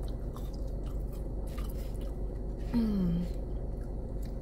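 Close-up chewing of French fries with ketchup: soft wet mouth sounds and faint clicks. About three seconds in comes a short hummed "mmm" that falls in pitch, over a steady low hum inside a car.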